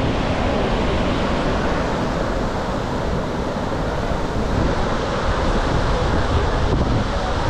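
Floodwater released from a dam rushing in a steady, loud torrent, with wind buffeting the microphone.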